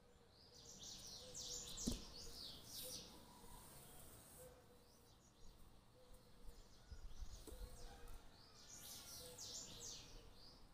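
Faint chirping of small birds, quick runs of high chirps coming in two spells. A single soft knock about two seconds in.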